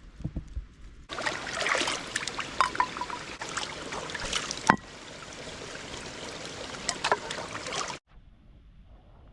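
Running stream water rushing and splashing, cutting in abruptly about a second in and cutting out abruptly near the end. A few low handling thumps come before it.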